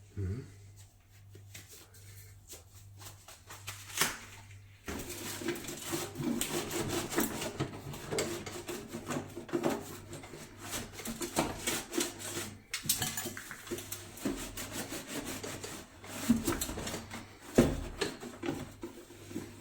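A wet cleaning cloth wiped hard against the inside of a microwave oven, a dense scratchy rubbing of many quick strokes starting about five seconds in. There is a sharp click just before it and a couple of knocks near the end.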